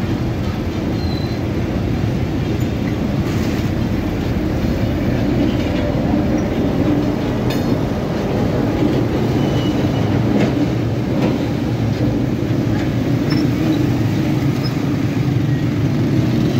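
Pakistan Railways passenger train rolling past close by: a steady, loud rumble of steel wheels on the rails.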